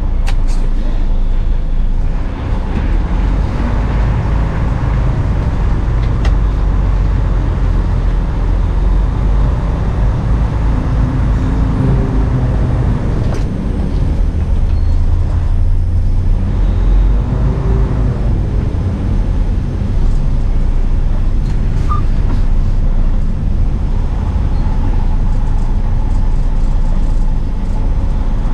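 Semi truck running down the road: a steady, loud low rumble of engine and road noise.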